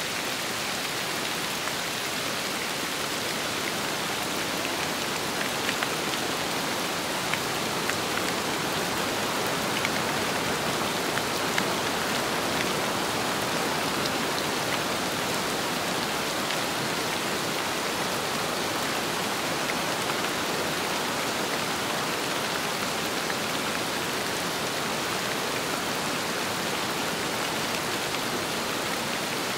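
Steady rain falling, an even dense hiss, with a few sharper drop hits standing out between about 6 and 12 seconds in.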